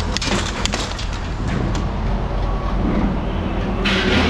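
Steady low mechanical rumble with scattered clanks and knocks.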